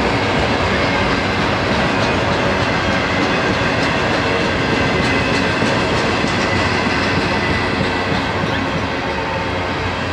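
Double-stack intermodal well cars rolling past: steady rumble of steel wheels on rail with faint clicks over the joints, easing slightly near the end.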